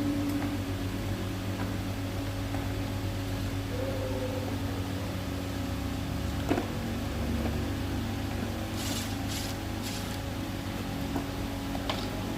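A steady low electrical hum, with a few light clicks and a short burst of scraping or rustling about nine seconds in.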